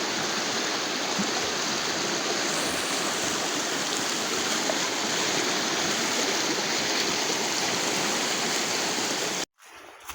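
Fast-flowing river rushing past in a steady, even roar of water that cuts off abruptly near the end.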